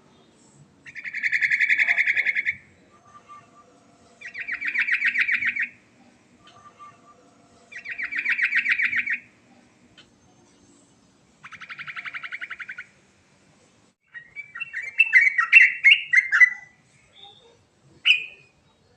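Yellow-vented bulbul (trucukan) singing: four fast rolling trills, each about a second and a half long, come a few seconds apart, followed by a jumbled run of varied chattering notes and one short final note.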